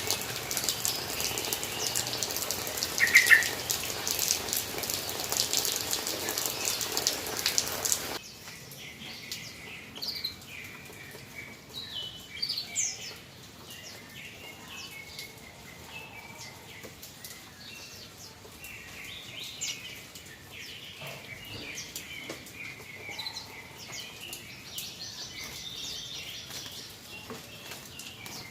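Water spraying with a steady hiss over a caged yellow-vented bulbul (trucukan), which gives a short call about three seconds in. The spray stops abruptly about eight seconds in, leaving the bulbul's scattered chirps and rising whistles with light clicks and flutters.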